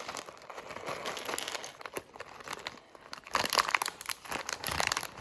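Plastic bag of small building-brick pieces crinkling as it is handled and rummaged through, with louder, busier rustling from about three seconds in.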